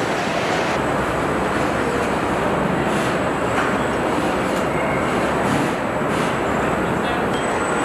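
Steady machinery rumble and hiss of a truck assembly line, with a few short clanks.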